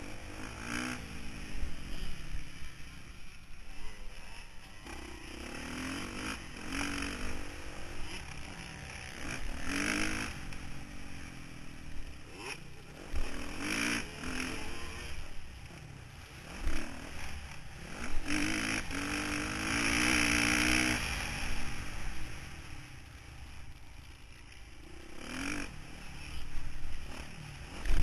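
Motocross bike engine revving hard and easing off over and over through the gears, heard from an onboard camera with wind and rushing noise; a few sharp knocks stand out, the loudest at the very end.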